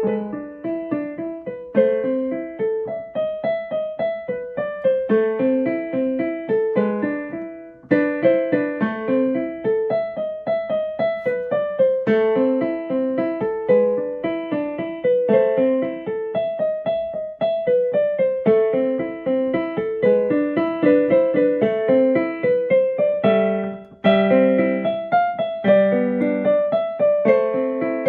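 Solo piano music, a steady flowing pattern of notes.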